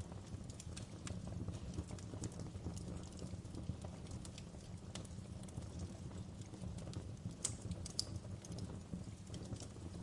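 Wood fire burning in a fireplace: a steady low rumble of flames with frequent sharp crackles and pops, two louder pops about seven and a half and eight seconds in.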